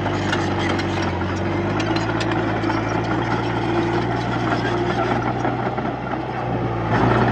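Komatsu D31-P bulldozer's diesel engine running steadily, with a rapid clatter of metal clanks that is thickest in the first two seconds. The sound grows a little louder near the end.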